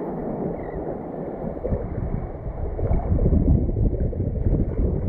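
Wind buffeting the microphone as a rumbling noise, gusting stronger about two seconds in.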